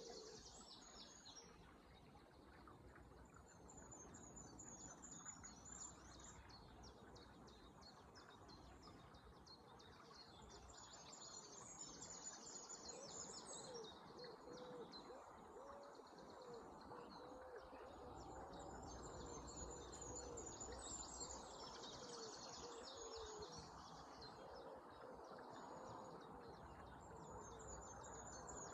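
Songbirds singing faintly in repeated high, trilling phrases over a steady rush of flowing water. A lower warbling bird song joins through the middle.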